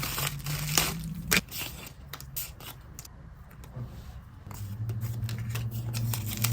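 Photocards and plastic sleeves being handled: scattered light clicks and taps with short scraping rustles.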